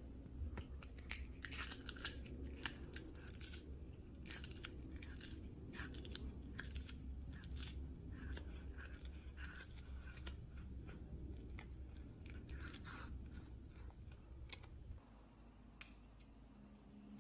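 Crunchy chewing: a long run of quick, crisp crunches that stops about two seconds before the end.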